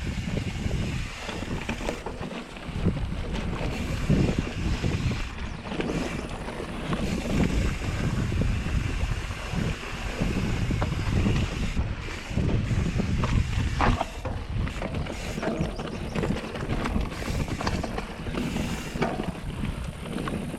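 Mountain bike riding a dirt trail: wind buffeting the microphone over tyre noise, with scattered clicks and rattles from the bike.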